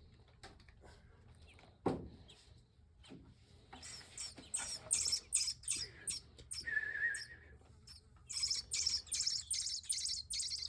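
Nestling birds giving rapid, high-pitched begging chirps while being hand-fed mealworms, in dense runs toward the end. A single sharp knock comes about two seconds in.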